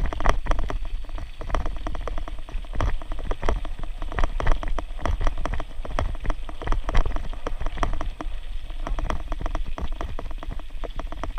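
Riding a bicycle over a rough path: dense, irregular rattling and crackling from the bike and its tyres over a steady low rumble.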